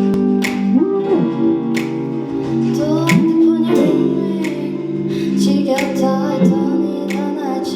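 Live pop music: a band led by guitar, with sustained chords, regular percussive strokes and a woman singing.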